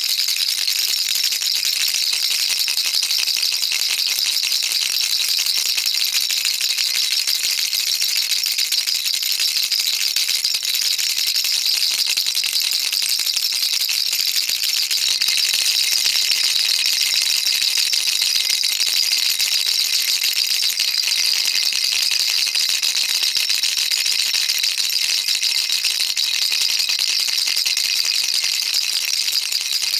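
Baby rattle shaken without a break, a dense, steady rattling of small beads inside, its sound mostly high and hissy.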